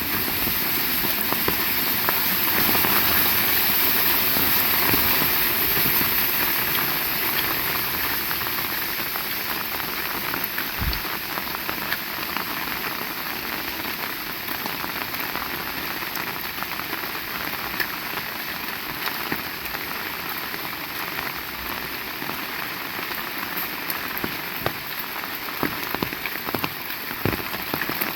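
Heavy rain falling: a steady, dense hiss with many fine drop ticks, slightly stronger in the first few seconds and easing a little after.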